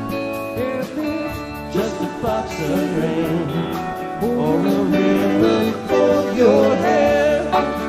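Live rock band playing an instrumental passage: a guitar lead with bending notes over a steady bass and a drum beat ticking on the cymbals.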